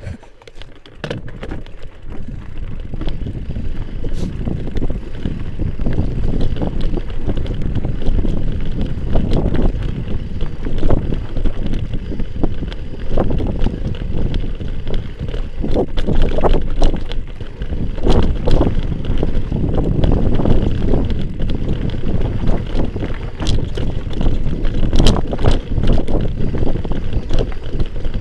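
Wind buffeting an action camera's microphone over the rattle and rumble of a mountain bike riding over rough dirt trail, with irregular knocks from bumps. It is loud and uneven, building up over the first couple of seconds.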